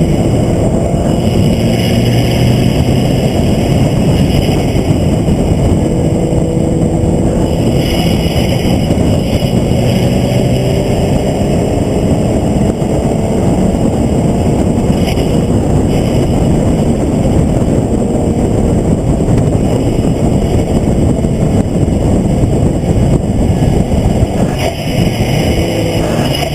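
Vehicle engine running hard at track speed under heavy wind and road noise, with its pitch rising in long climbs through the middle as it accelerates.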